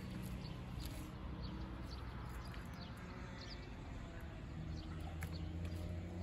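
Small birds chirping in short, repeated high calls over a low steady rumble that grows louder about two thirds of the way through, with a few light clicks.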